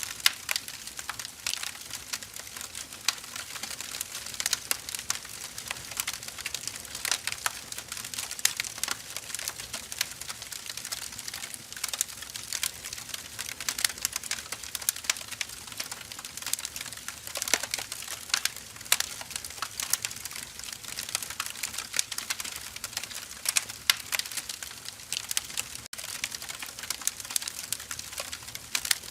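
Firewood burning in a fire: steady dense crackling with irregular sharp pops over a soft hiss.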